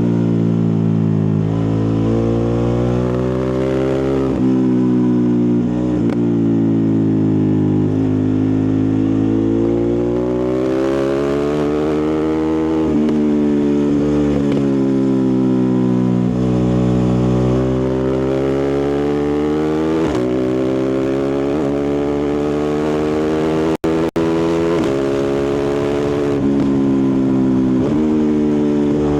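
Ducati Multistrada 1260 Pikes Peak's 1262 cc V-twin engine and exhaust under riding, its pitch rising and falling again and again with throttle and gear changes. The sound cuts out twice very briefly near the end.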